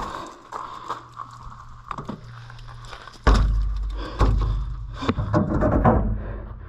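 Mountain bike ridden along a dirt trail: clicks and rattles from the bike. About halfway in, a sudden heavy low rumble with loud thumps begins and continues until near the end.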